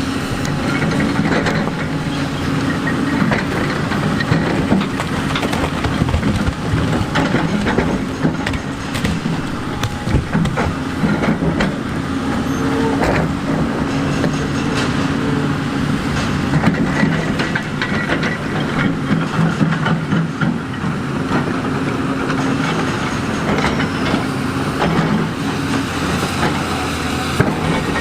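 Heavy diesel earthmoving machinery running steadily, with frequent clanks and knocks of metal and rock scattered throughout.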